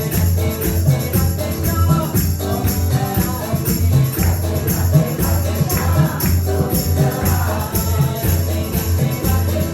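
Upbeat kirtan music: group chanting over a steady bass, with jingling hand percussion striking an even beat.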